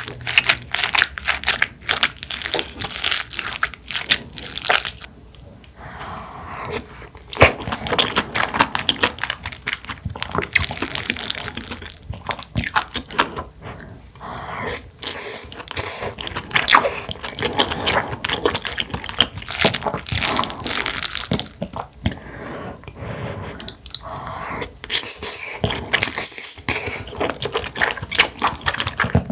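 A person chewing and biting food close to the microphone, with wet mouth sounds and irregular crunches.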